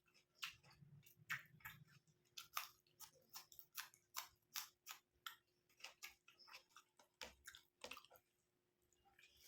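Close-up wet chewing and lip-smacking of a person eating curry with rice: a quick series of soft sticky clicks, about two or three a second, pausing briefly near the end.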